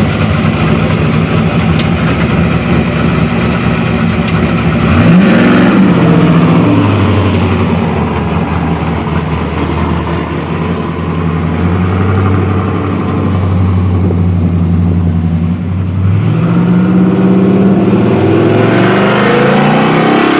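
1980 Chevrolet Malibu street rod's engine running through newly fitted Dynomax performance mufflers. It revs up twice, about five seconds in and again near the end, with steadier running between.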